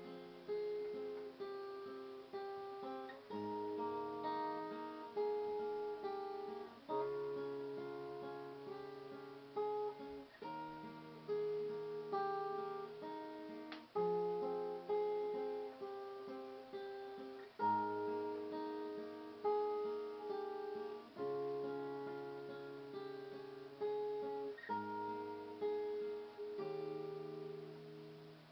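Acoustic guitar playing an instrumental passage of ringing chords, with a new chord struck about every three to four seconds.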